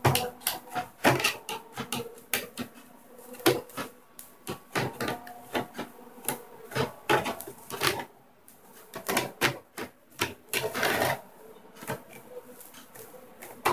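Laptop display casing being opened with a screwdriver: a run of irregular clicks and taps of plastic parts being pried and handled.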